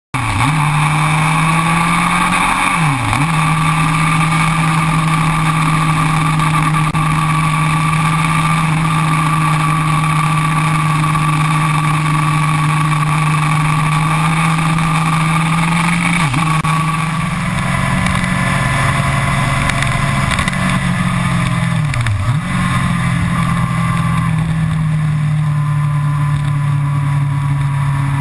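Yamaha R1's inline-four engine running steadily at cruising revs with wind rush, the engine note dipping briefly three times before settling back.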